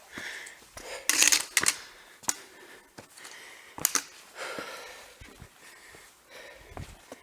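Footsteps of a hiker on the stony, gravelly bed of a dry wadi: uneven crunching steps and scuffs, the loudest about a second in.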